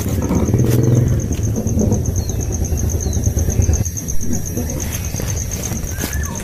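Outdoor ambience: a steady low rumble with a fast, even, high-pitched pulsing running through it and a few faint short chirps.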